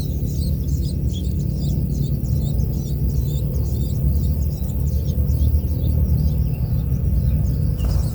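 Cendet (long-tailed shrike) chattering song: a fast, unbroken run of short high chirps over a steady low rumble, with a single click near the end.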